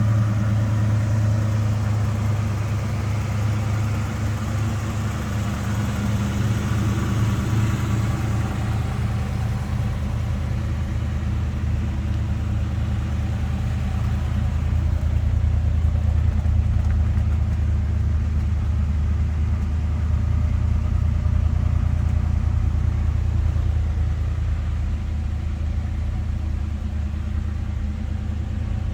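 Ford 289 V8 running steadily through dual exhaust, with a low, even rumble; its pitch drops a little about ten seconds in and then holds steady.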